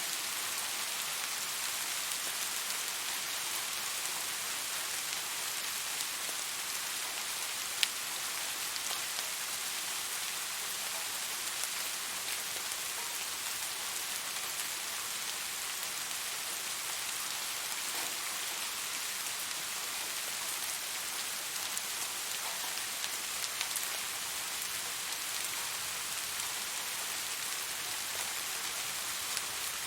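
Steady rain falling, an even hiss with scattered individual drop ticks, one sharper tick about eight seconds in.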